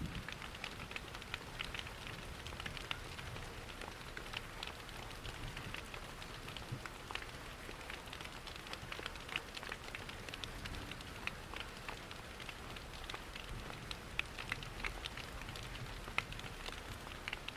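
Steady rain mixed with a crackling wood fire, with frequent small sharp pops and ticks over an even rushing hiss.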